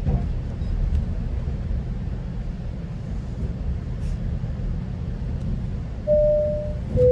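Steady low rumble of a GO Transit commuter train running along the track. Near the end comes a falling two-note chime, the onboard announcement signal.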